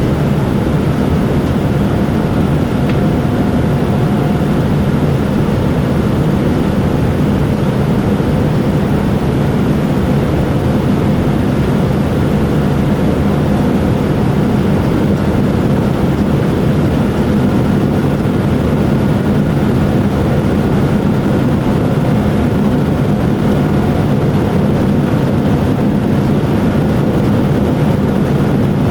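Steady cabin noise inside a Boeing 787-9 under engine power: an even rush of engine and airflow noise with a low hum and a few faint steady tones, unchanging throughout.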